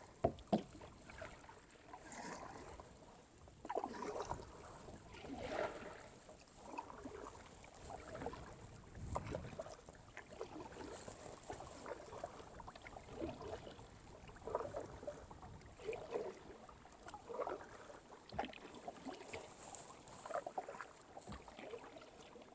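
Kayak paddle strokes dipping and splashing in calm water, a soft stroke every second or two.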